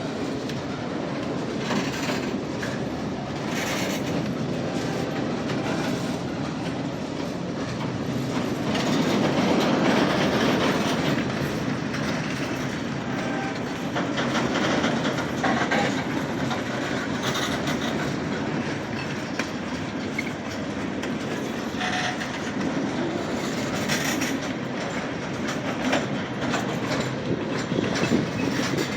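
Freight train cars rolling slowly past, a steady rumble with wheels clicking irregularly over the rail joints.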